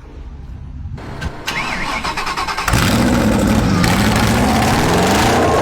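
Citroën GT's V8 engine being started: the starter whirs and cranks for about a second and a half, then the engine catches a little under three seconds in and runs loud, its revs swinging up and down.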